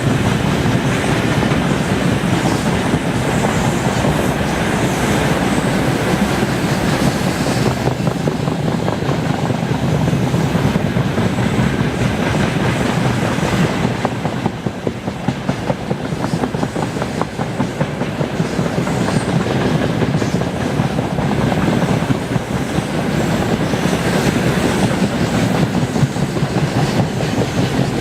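Freight train wagons rolling past on the rails, a steady loud rumble with the wheels clattering continuously over the rail joints.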